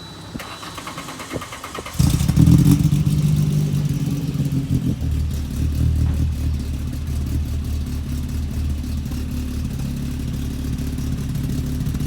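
VW Rabbit Pickup's 8-valve four-cylinder engine through a Techtronic full exhaust: the starter cranks for about two seconds, then the engine catches with a sudden loud flare. It settles into a steady low idle a few seconds later.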